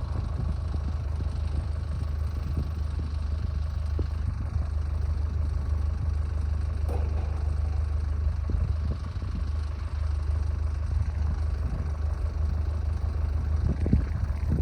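An engine running steadily at idle, a constant low hum with a few faint clicks over it.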